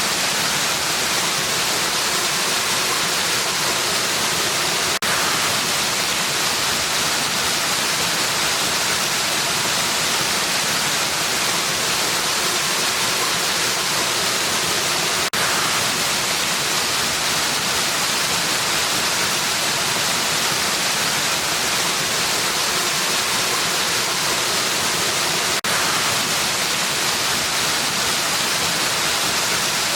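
Waterfall: a steady, unbroken rush of falling water, with a brief slight dip about every ten seconds.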